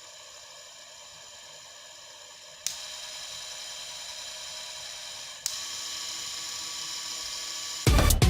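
DC fan running with a steady whine, switched up twice on a rewired washing-machine speed controller: a click about two and a half seconds in and another about five and a half seconds in, the fan running louder after each as its speed steps up. Loud music starts near the end.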